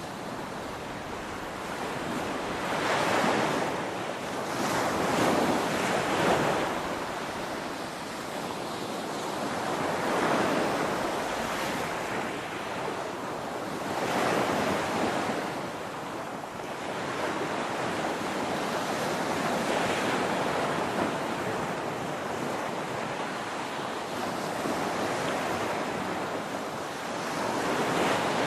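Ocean waves breaking and washing on a shore, a steady surf noise that swells and eases every few seconds, with some wind.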